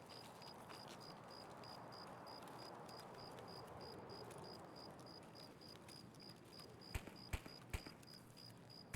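Faint, evenly repeating high-pitched chirp, about four pulses a second, over a low background hiss. A few sharp clicks or knocks come in quick succession about seven seconds in.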